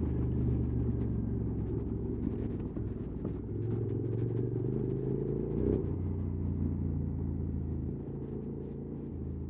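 QJ Motors SVT650X parallel-twin engine with an Arrow slip-on exhaust, running at low revs; its note steps up and down a few times with the throttle.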